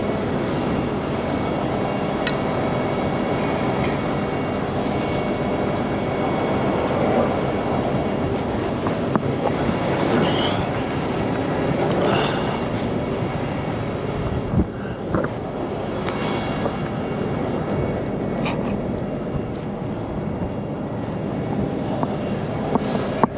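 Heavy diesel tow-truck engines running steadily at a wreck recovery, with a few sharp metal knocks and two brief high squeals near the end.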